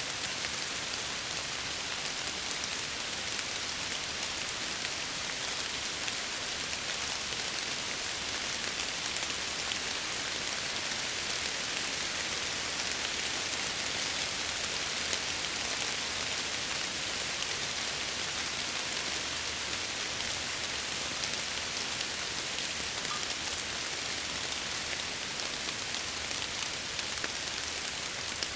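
Steady rain pattering against window glass, a dense even hiss of drops with no lulls.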